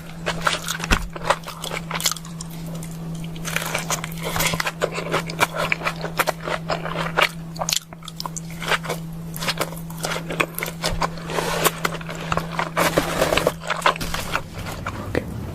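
Close-miked chewing of a burger-and-fries meal: a dense, irregular run of crisp crunches and wet mouth clicks. A steady low hum underneath stops near the end.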